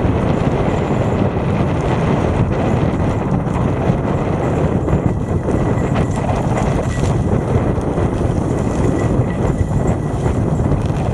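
Trek 8.3 DS hybrid bicycle being ridden: a loud, steady rumble of tyres and wind on the bike-mounted microphone, with scattered rattling clicks from the bike over a rough forest-road surface.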